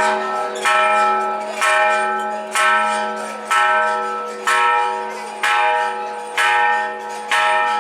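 Large temple bell struck steadily about once a second, eight strokes, each ringing on into the next.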